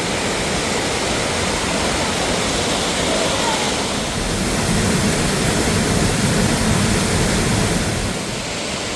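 Mountain waterfall rushing steadily, a continuous wash of falling water that swells a little just past the middle and eases slightly near the end.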